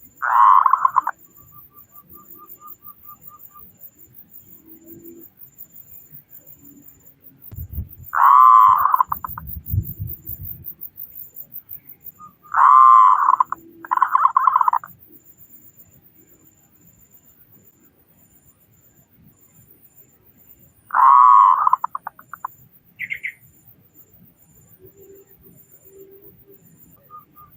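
Zebra dove (perkutut) cooing: five short, rolling, purring coos spaced several seconds apart, with a quick string of soft staccato notes just after the first one. A low rumble runs under the second coo.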